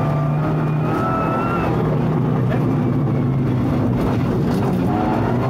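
Rally car engine under load, heard from inside the cabin: its note climbs about a second in, breaks up in the middle, then settles steady again near the end.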